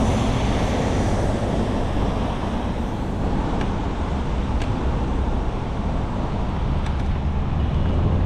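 Steady rush of wind on the microphone with city traffic noise and a deep rumble, as heard from a moving bicycle, with a few faint sharp ticks.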